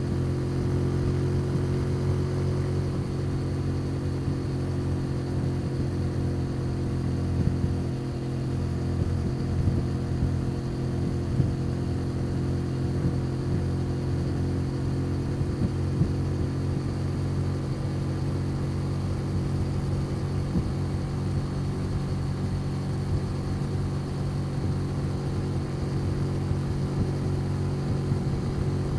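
Custom motorcycle's engine and exhaust running steadily under way, the engine note holding a near-constant pitch.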